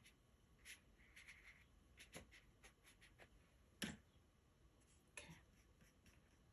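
Near silence with faint, scattered brush strokes and dabs of a watercolour brush on paper, and one clearer small tap about four seconds in.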